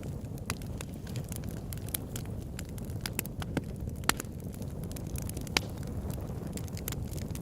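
Campfire crackling: wood snapping and popping in irregular sharp clicks over a steady low rush of flame, with a few louder pops about four and five and a half seconds in.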